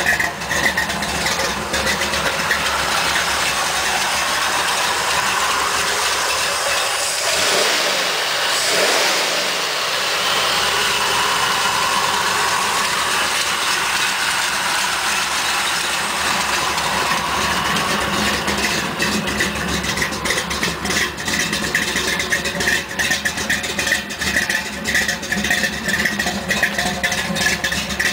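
1971 Ford F-100 pickup's engine running steadily, revved up and back down once about eight seconds in.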